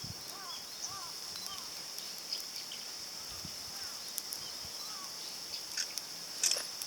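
Outdoor ambience: insects droning steadily at a high pitch, a bird repeating short arched call notes, and scattered sharp crackles from a wood fire burning in a small titanium grill.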